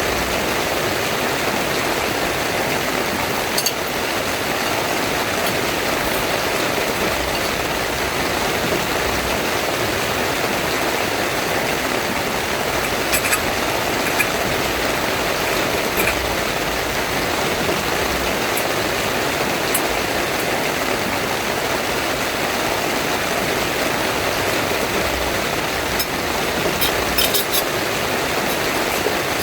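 Heavy rain pouring steadily on a tent, with a few sharper taps of drops now and then, several of them near the end.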